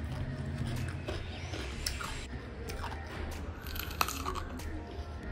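A person chewing and biting food close to the microphone: irregular wet, crunchy mouth sounds, with one sharper click about four seconds in, over a low steady hum.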